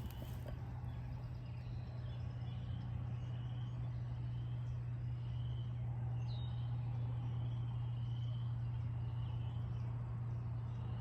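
Morning woodland ambience: a steady low hum under a bird's short call repeated about once a second, with one brief high chirp about six seconds in.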